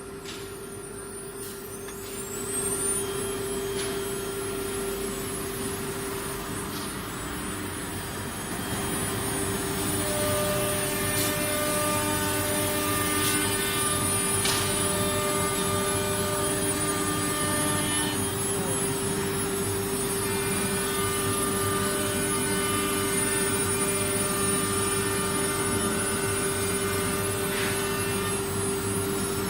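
CNC router spindle spinning up with a rising whine about two seconds in, then running at speed with a steady whine. It grows louder about nine seconds in.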